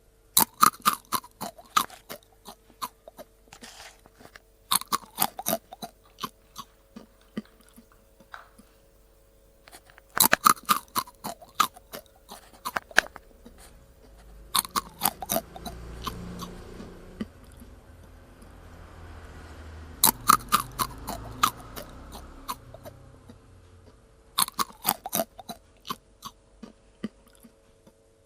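A cat crunching dry kibble: bursts of quick, sharp crunches, five or so, with pauses between them. A low muffled rumble runs through the middle stretch.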